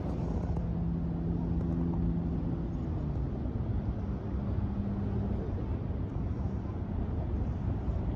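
Low, steady outdoor rumble of wind and surf with the drone of a distant engine, whose hum fades out about five seconds in.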